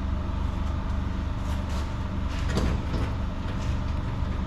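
A steady low mechanical hum, with a few faint clicks or knocks over it.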